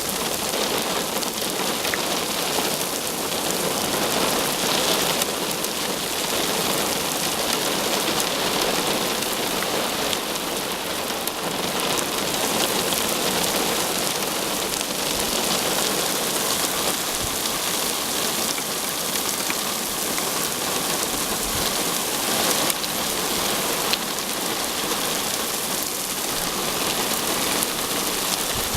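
Heavy rain pouring down in a thunderstorm: a steady, dense hiss that holds through the whole stretch, with no clear thunderclap.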